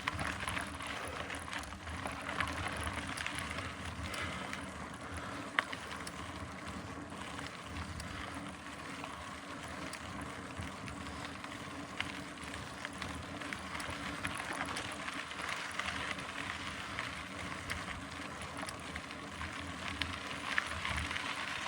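Mountain bike climbing a long hill, with steady tyre noise on the trail and the bike's drivetrain running. A few sharp clicks stand out, the clearest about five and a half seconds in.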